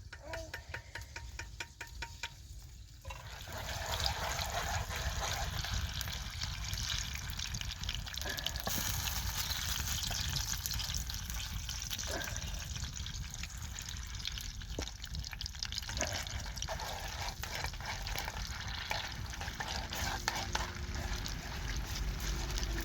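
Food frying in a pan: a steady sizzle with fine crackling starts about three seconds in, after a few light ticks.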